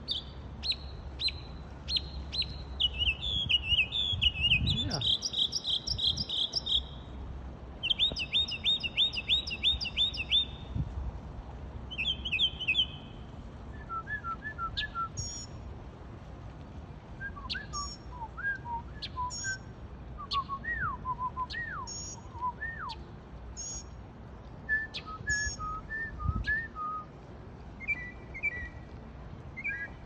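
A songbird singing a varied song: fast repeated trills high up for the first dozen seconds or so, then slower, lower whistled notes and glides mixed with short high chirps, and a quick trill again near the end.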